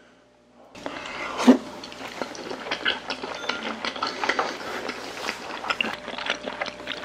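Chewing and wet mouth sounds of people eating raw yellowtail sashimi, with many small clicks, starting about a second in.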